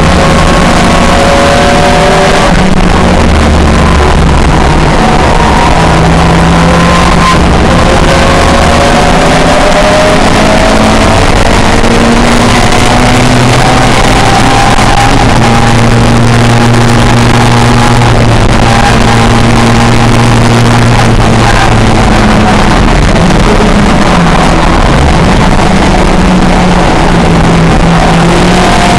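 Pre-1966 touring car racing engine running loud and hard, its revs climbing and dropping through gear changes and corners, holding steady on a long stretch in the middle.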